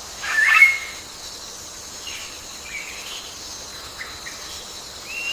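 Wild birds calling: a loud, twisting burst of chirps about half a second in, then scattered short chirps, over a steady high insect chorus.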